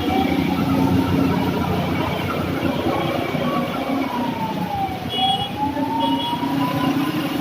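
An emergency-vehicle siren wailing slowly, its pitch falling and then rising again, over a steady din of road vehicles. Two short high beeps come about five and six seconds in.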